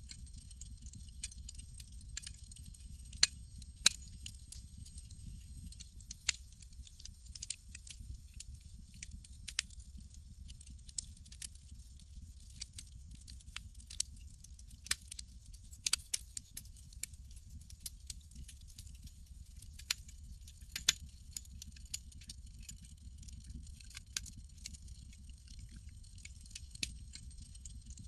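Campfire crackling: irregular sharp pops and snaps, a few much louder than the rest, over a low, steady rumble of burning wood.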